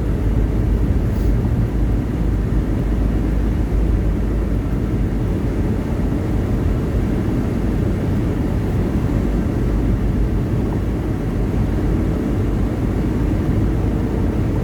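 Steady low drone of a semi truck's engine and road noise, heard from inside the cab while cruising along the highway.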